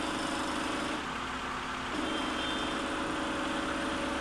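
Toyota 2E four-cylinder petrol engine idling steadily, its idle holding constant after a new head gasket. The engine's steady hum dips slightly in pitch for about a second, about a second in, then settles back.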